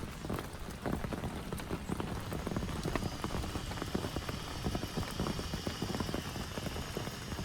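Heavy rain falling, with a dense, irregular patter of drops striking a nearby surface.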